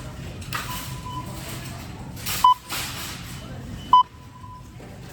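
Checkout barcode scanner beeping as items are scanned: two short, high single-pitch beeps, about a second and a half apart, with items rustling as they are handled between the beeps.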